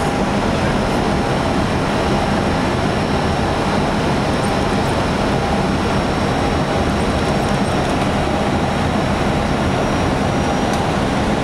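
Steady cockpit noise of an Airbus A320 on approach: a constant rush of airflow with engine and air-conditioning hum, and a faint high steady whine above it.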